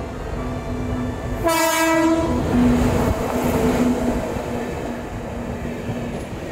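Passenger train coaches rolling past at close range, a steady rumble and clatter of wheels on the track, with a short horn blast about a second and a half in.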